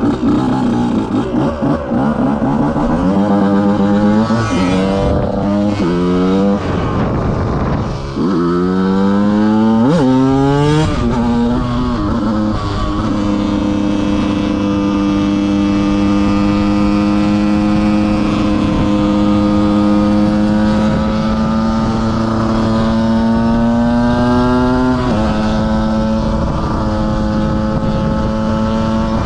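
KTM 125 motorcycle engine accelerating hard through several gears, the revs climbing and dropping back at each shift, then held at steady high revs while cruising, with one more shift that lowers the pitch near the end.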